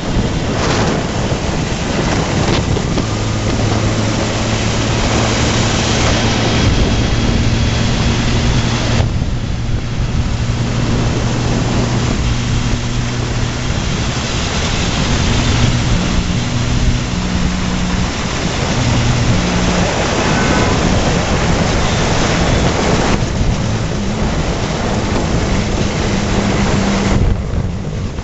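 Yamaha RD350 air-cooled two-stroke twin with a 2-into-1 expansion exhaust running under way, its engine note shifting in pitch a few times, with heavy wind noise on the microphone.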